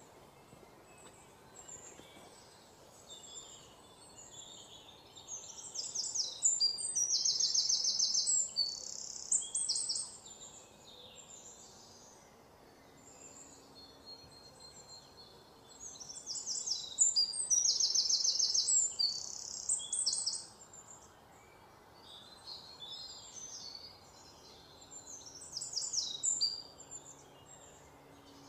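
Bird calls: three long runs of rapid, high, repeated chirps, each lasting a few seconds, with a faint steady background in between.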